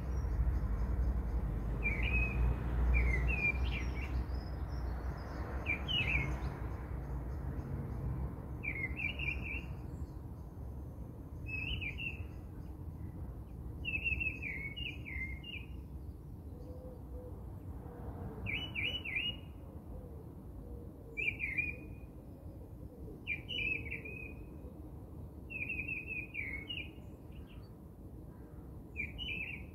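A small bird chirping in short, quick phrases, repeated roughly every two seconds, over a low steady rumble that is strongest in the first few seconds and slowly fades.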